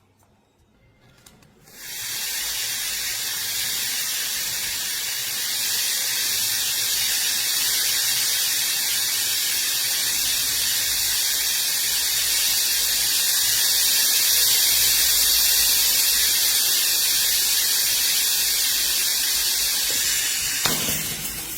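A loud, steady hiss that starts abruptly about two seconds in and stops just before the end.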